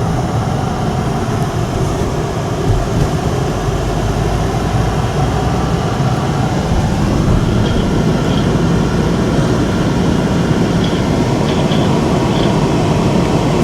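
Steady, continuous rumble of a moving vehicle, heavy in the low end.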